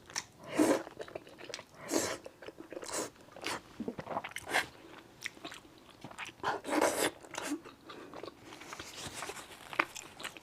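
Close-miked eating of thick noodles in sesame sauce: bites and chewing in irregular bursts, with small wet clicks in between.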